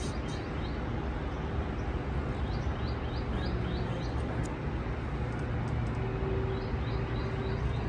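A small bird repeats short, rising chirps in quick runs of about five a second, three times over. Beneath it runs a steady low outdoor rumble.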